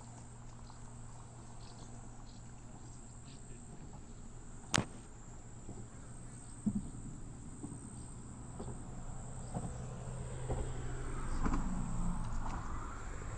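Insects chirring steadily in a continuous high-pitched trill over a low steady hum, with a single sharp click a little under five seconds in.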